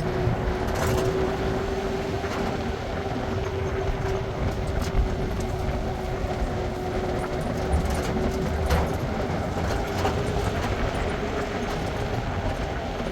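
Steady rumble of a moving vehicle with a constant hum running through it and a few light knocks.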